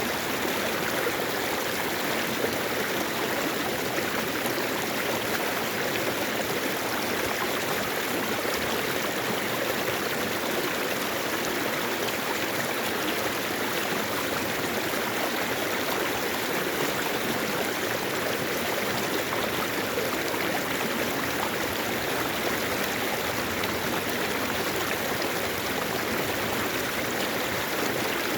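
Mountain valley stream flowing over rocks: a steady, even rush of water that does not change.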